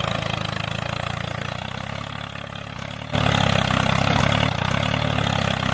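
Small engine of a DIY mini tractor running steadily. It fades slightly, then comes back suddenly louder about three seconds in.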